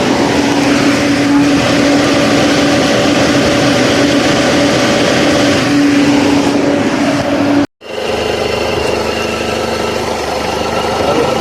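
Car's electric engine cooling fan running continuously at high speed with a steady whirring hum, the fan that keeps running and will not switch off. About two-thirds of the way through, the sound drops out for an instant and comes back thinner, with a higher whine.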